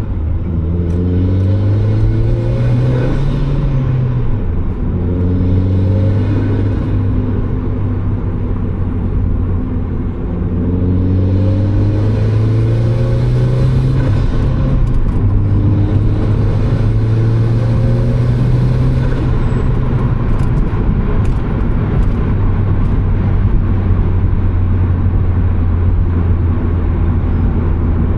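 Turbocharged Mazda Miata's four-cylinder engine pulling through the gears while driving. Its pitch climbs and drops back at each shift several times, then holds steady at a cruise for the last third.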